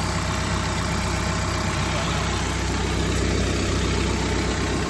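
John Deere 4066R compact tractor's diesel engine running steadily at idle.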